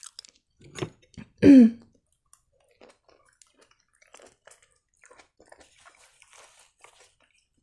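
A person chewing food, with soft wet mouth clicks and crackles. About a second and a half in there is a short, louder vocal sound from the throat.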